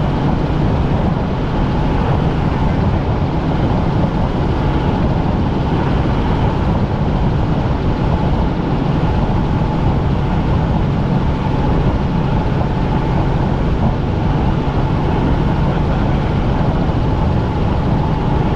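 Helicopter in flight heard from inside the cabin: a loud, steady drone of engine and rotors with a thin steady whine running through it.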